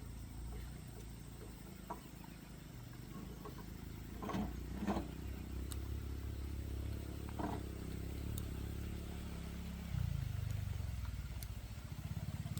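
An engine running with a steady low hum, a few short knocks about four to five seconds in and again near the middle, and the pitch dropping about ten seconds in before a fast low throb near the end.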